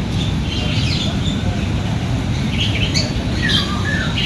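Several birds calling in short chirps and squawks, scattered through, over a steady low rumble.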